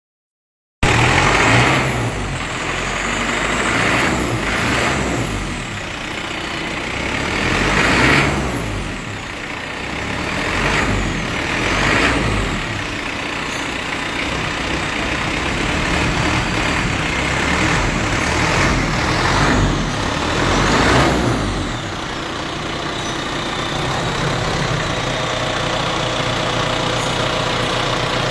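Isuzu 4JG2-T four-cylinder turbo-diesel engine running, revved up in a series of short blips, then settling to a steady idle about 22 seconds in.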